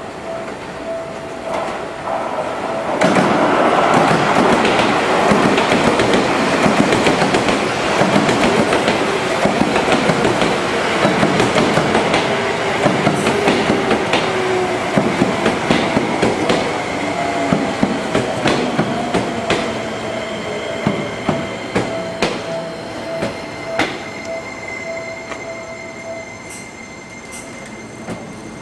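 Seibu 20000-series electric commuter train pulling into a station and braking to a stop. Its wheels clack over the rail joints as the cars pass, and the traction motors' whine falls in pitch as it slows. A high, steady brake squeal runs through the last few seconds.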